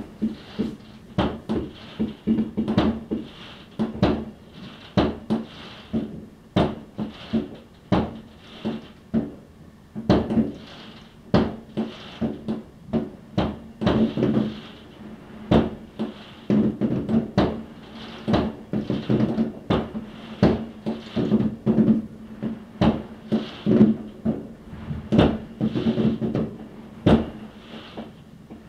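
New Year's Eve fireworks going off: a dense, irregular string of sharp bangs, several a second, throughout.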